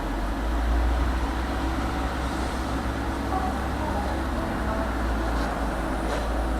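Tram car running between stops, heard from inside: a steady low rumble of the car on the rails, with a few faint clicks near the end.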